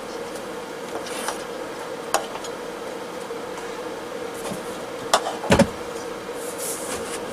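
Parts of a plastic-shell diesel heater clicking and knocking as they are fitted back together, a few separate knocks, the loudest about five and a half seconds in, over a steady hum.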